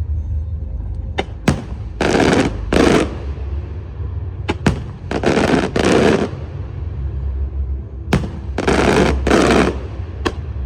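Fireworks going off: sharp single bangs, each followed by a pair of short, dense volleys of rapid crackling reports, three times over, with a steady low rumble underneath.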